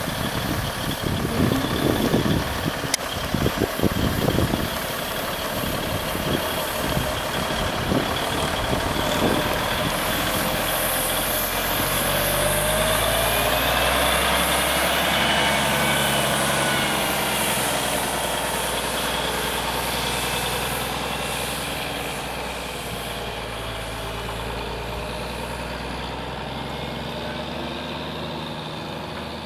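1969 Peterbilt bed truck's engine running, with uneven low thumping in the first several seconds. It then settles into a steady run, its pitch rising and falling gently about halfway through.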